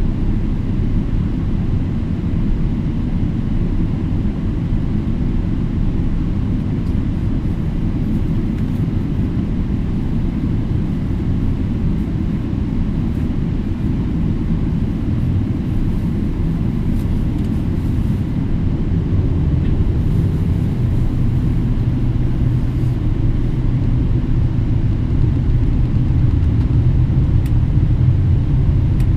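Cabin noise of a Boeing 777-300ER on the ground: a steady low rumble from its GE90 engines at taxi power and its rolling gear. A low engine hum grows a little stronger about two-thirds of the way in.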